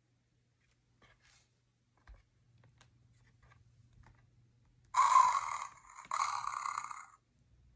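Faint paper rustles and clicks as a board-book page is turned, then the sound book's speaker plays a recorded animal call: two loud cries about a second each, starting about five seconds in.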